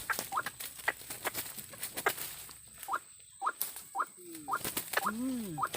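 Bird calls: a run of short, squeaky, rising chirps repeated every half second or so, with two lower arching croaks near the end, and scattered sharp clicks.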